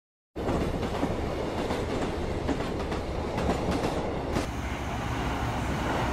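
Railway station noise with trains running, starting abruptly, with a few sharp clicks about three and a half seconds in and a change in the noise about four and a half seconds in.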